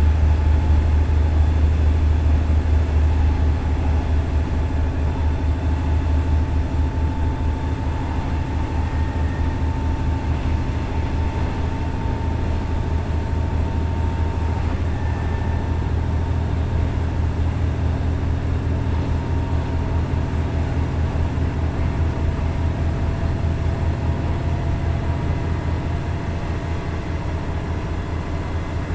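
Running sound inside a KiHa 110-200 diesel railcar, with its Cummins DMF14HZA diesel engine and the rail noise under way. The deep engine hum is strongest for the first several seconds, then eases and the whole sound grows a little quieter.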